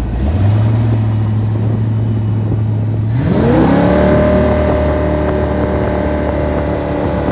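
Jet boat's inboard engine idling steadily, then revving up smoothly a little after three seconds in and holding at a higher, steady speed.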